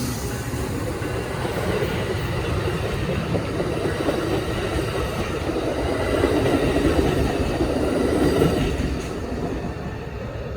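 A train rolling past on the tracks: a steady rumble of wheels on rail that fades away near the end.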